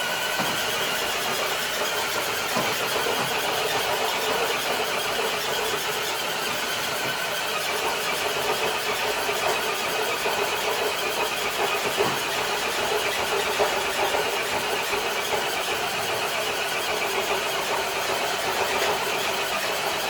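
A small electric RC crawler truck's motor and gears whining steadily under load as it pulls a weighted sled across concrete.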